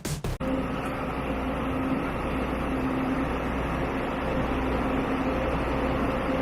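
Steady running drone of a moving vehicle, with an even low hum throughout. The tail of an electronic music intro cuts off about half a second in.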